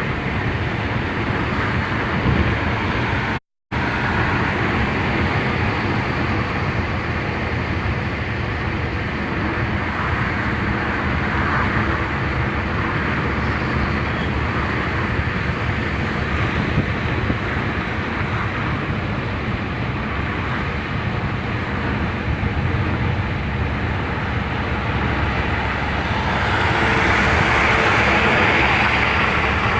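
Steady road noise of a car driving on a highway: tyre and wind rush with engine hum. The sound cuts out for a moment about three and a half seconds in, and grows louder for a few seconds near the end.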